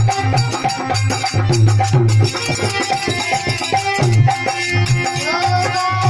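Instrumental passage of a Rajasthani desi bhajan: a steady drum rhythm under a sustained melodic line, with no singing.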